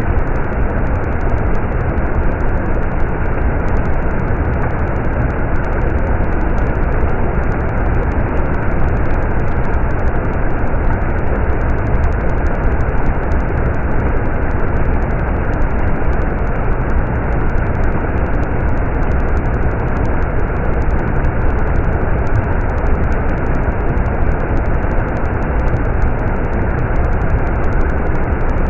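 A flowing stream: water rushing steadily, a dense, even sound that is heaviest in the low end.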